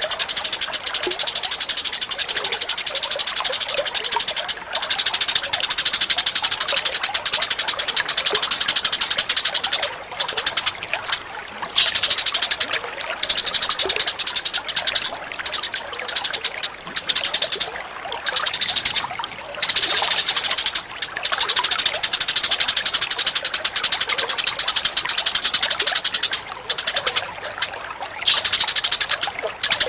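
Birds giving a rapid, high-pitched chattering trill, in long runs broken by short pauses.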